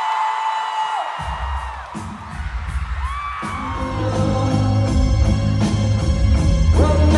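Live rock band playing in concert, heard from the crowd: a held sung note slides down about a second in, then the bass comes in, and the full band with drums joins a few seconds later.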